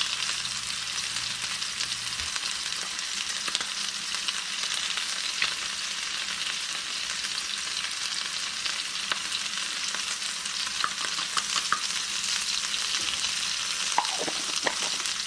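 Yellowfin tuna steaks sizzling steadily in a hot frying pan, oil and basil pesto spitting as it drips down the sides, with a few small pops near the end.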